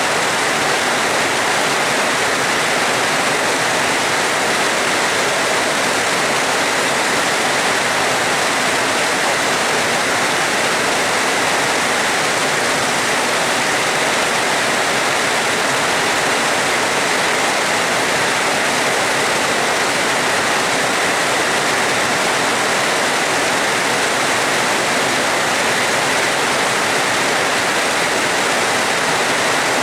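Heavy rain falling steadily, an even, unbroken hiss with no thunderclap.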